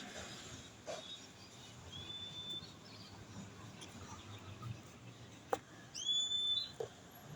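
A bird's high whistled call, twice: each note sweeps quickly up and then holds a steady pitch, the second, about six seconds in, longer and louder. A few sharp clicks fall between them.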